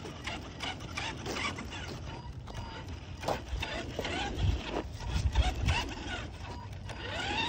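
Redcat RC truck driving over pavement: its electric motor whining and its chassis and wheels rattling with many small clicks, with low rumbles around the middle and a rising motor whine near the end as it speeds up.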